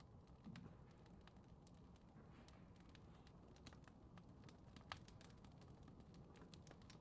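Faint fireplace crackling: irregular small pops and snaps over a low steady rumble, with one sharper pop about five seconds in.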